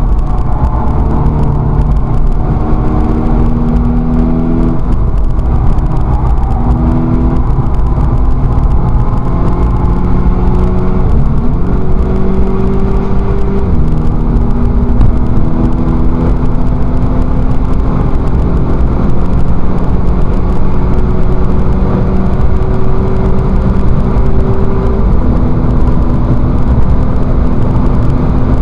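Race-prepared Volkswagen Scirocco's engine running hard from inside the cabin, its note holding steady, then rising and shifting in pitch several times as the car changes gear and accelerates.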